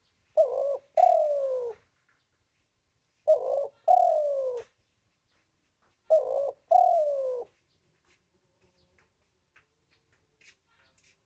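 Spotted dove cooing: three calls about three seconds apart, each a short coo followed by a longer coo that falls in pitch. The calls stop about halfway through.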